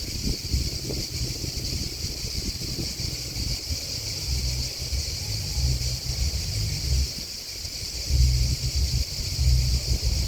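Field insects chirping in a continuous high trill, with wind buffeting the microphone in low, gusting rumbles that grow strongest near the end.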